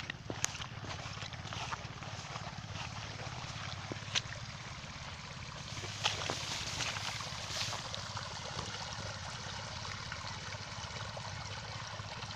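Chinese diesel engine pump set running steadily under load, its exhaust beat a low, even pulsing, with water rushing from the pump outlet. A few sharp clicks stand out.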